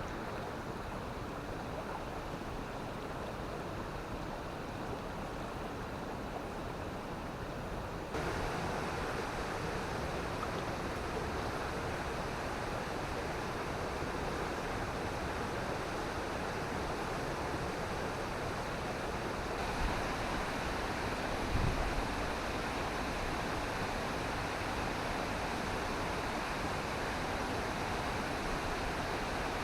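Steady rushing water, a continuous even hiss of flowing water, growing louder about a third of the way in. A brief low thump stands out about two-thirds through.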